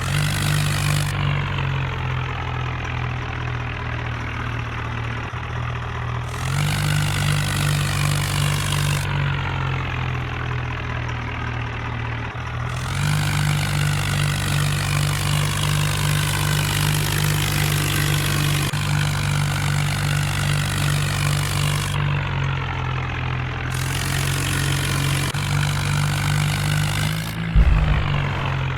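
Tractor engine running steadily, its throttle opened up and eased back in steps. There is a brief loud thump near the end.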